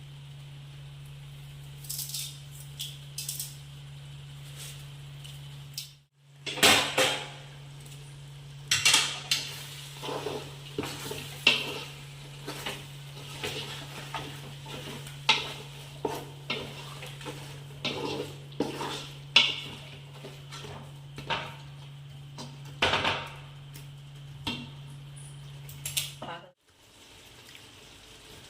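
Metal kitchen utensils and cookware clinking and knocking irregularly, as with a spoon working in a cooking pot. A steady low hum runs underneath and cuts out briefly twice.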